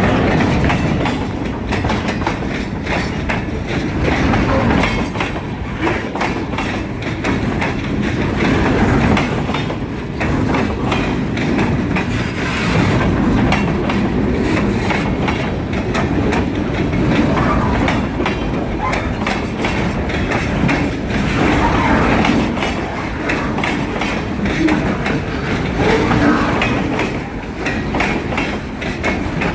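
Freight cars of a long train rolling past close by, their wheels clattering steadily over the rail joints.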